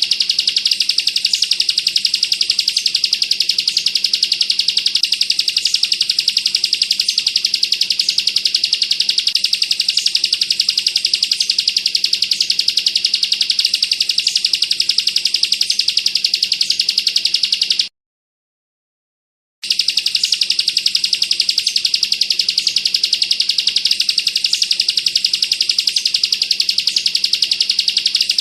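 Ciblek (bar-winged prinia) singing a continuous, very rapid rattling trill, the 'bren' burst prized by bird keepers. It stops dead for about a second and a half some 18 seconds in, then starts again.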